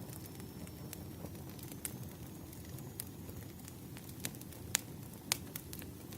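Wood fire crackling: irregular sharp pops and snaps over a low, steady rumble, with two louder pops close together near the end.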